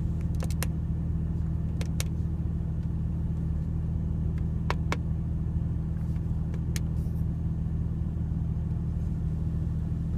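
Porsche Cayman GTS's flat-six engine idling steadily as a low, even hum heard from inside the cabin, with a few sharp clicks scattered through it.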